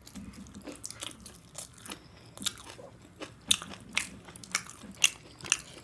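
A person chewing and biting food close to the microphone: irregular soft crunches and wet mouth clicks, with a few sharper ones in the second half.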